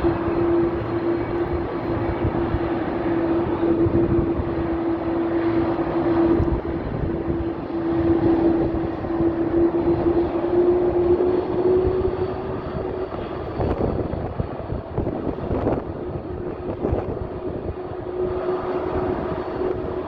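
Airbus A330-300's twin turbofan engines running at taxi power: a steady jet rush with a droning tone that rises slightly about halfway through, fades for a few seconds, then returns near the end.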